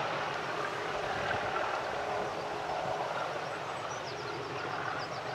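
Diesel train running at a distance, its sound slowly fading, with a few short bird chirps near the end.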